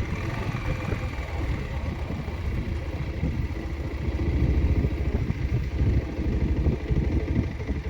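Motorcycle engine running at low revs, a steady low rumble.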